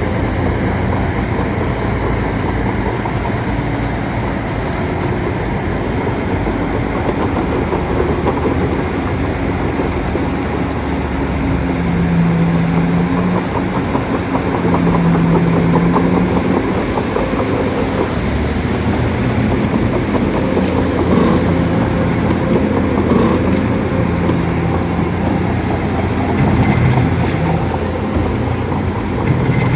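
Bulldozer's diesel engine running steadily, its note shifting a little through the middle and later part.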